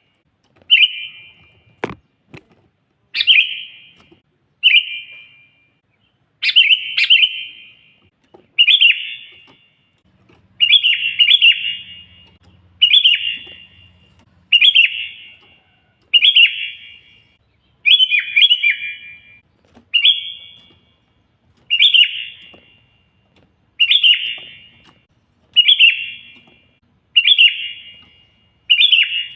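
Sooty-headed bulbul (kutilang) singing in full song, repeating short, loud, bubbling phrases about every one and a half to two seconds. A single sharp click sounds about two seconds in.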